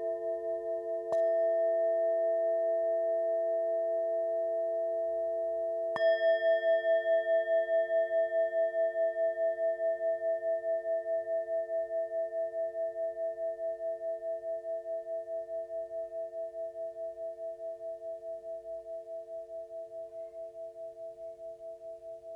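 Tibetan singing bowls ringing together in several steady tones, struck twice, about a second in and again about six seconds in. The tones pulse as they slowly fade.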